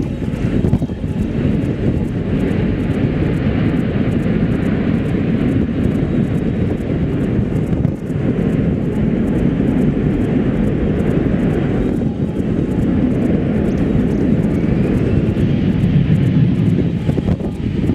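Airbus A380 jet airliner on approach, a steady loud jet-engine roar with a deep rumble. The sound changes abruptly about eight and twelve seconds in.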